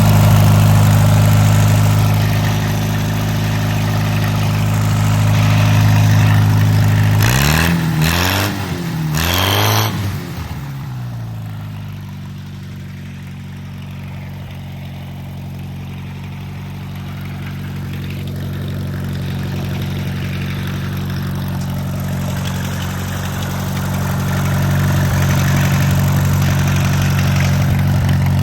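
Allis-Chalmers B tractor's four-cylinder engine running on propane, holding a steady fast speed. About eight seconds in it is revved up and down a few times, then it settles into a slower, steady run.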